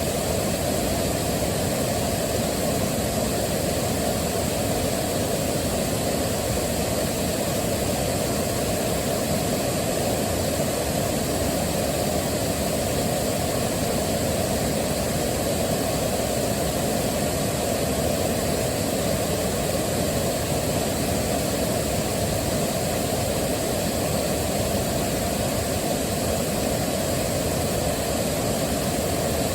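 Waterfall rushing steadily, the sound of falling water weighted toward the low and middle pitches.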